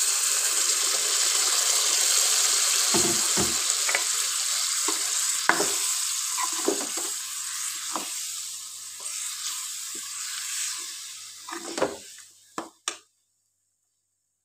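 Tomato juice sizzling hard in hot oil over frying chicken and potatoes, the sizzle slowly dying down as the liquid spreads. A metal spoon stirs and knocks against the pot now and then. The sound cuts off near the end.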